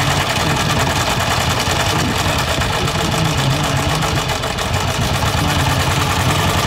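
Engine running steadily at idle, with a rapid, even firing beat.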